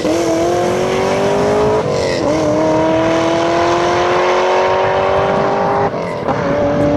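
Supercharged 2010 Chevrolet Camaro SS, a 6.2-litre V8 with a Whipple supercharger and modified exhaust, accelerating at full throttle and moving away. The engine note climbs steadily in pitch through each gear, with upshifts right at the start, about two seconds in and about six seconds in.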